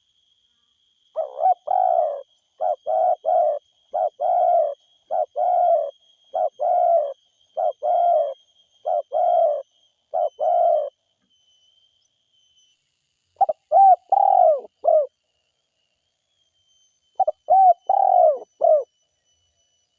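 Spotted dove cooing: a quick run of about nine coos, then, after a short pause, two brief phrases of three or four notes each.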